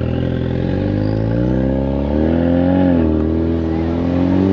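A 2021 Ford Mustang EcoBoost's turbocharged 2.3-litre four-cylinder, with the muffler deleted, accelerating. The engine note rises for about three seconds, drops at a gearshift, then climbs again.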